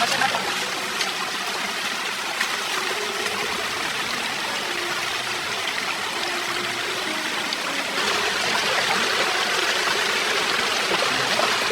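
Forest stream water flowing in a steady rush, growing a little louder about eight seconds in.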